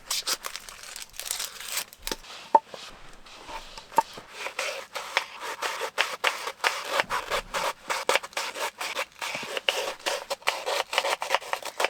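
Knife cutting vegetables on a cutting board: many quick, uneven cuts with scrapes in between.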